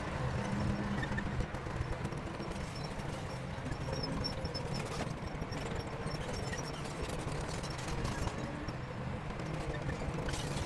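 Shantui crawler bulldozer's diesel engine running steadily, with a stream of clanks and knocks from its steel tracks.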